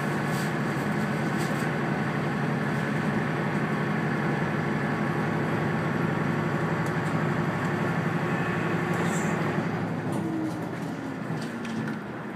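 Tosa Kuroshio Railway diesel railcar running, heard from inside the cabin: a steady rumble and hum of engine and wheels on rail. About ten seconds in the engine note falls in pitch and the running noise grows quieter.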